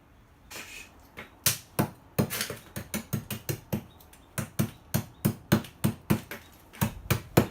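A faint rustle, then a rapid, regular run of sharp knocks, about three to four strikes a second, starting about a second and a half in.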